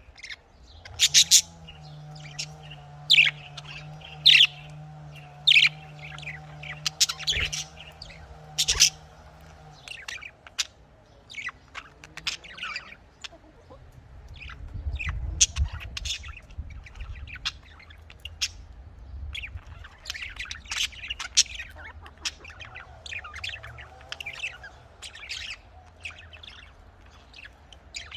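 Budgerigars chirping and squawking: a dense run of short, sharp calls with no let-up, loudest in the first third, over a low steady hum that stops about a third of the way through.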